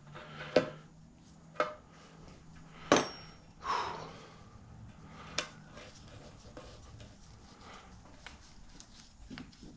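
A handful of separate metal clinks and knocks from tools and mower parts being handled and set down, the loudest, with a short ring, about three seconds in; the last few seconds are quiet.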